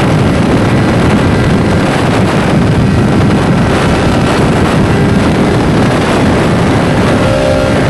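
Heavy wind rush on the microphone over the steady running of a motorcycle on the move.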